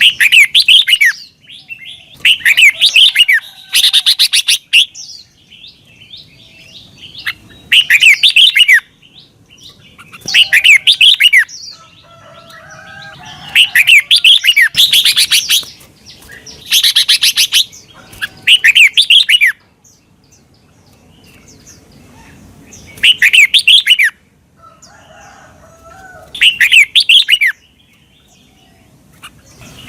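Red-whiskered bulbul singing: about ten loud, bright phrases of quick rising and falling whistled notes, each about a second long, with short pauses between them and one longer pause past the middle.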